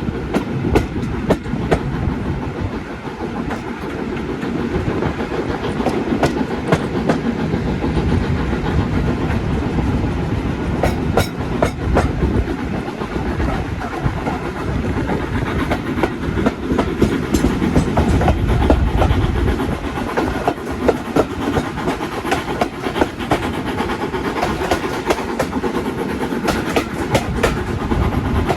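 A heritage railway train running along the track: a steady rumble with many sharp clicks of wheels over rail joints, loudest about two-thirds of the way through.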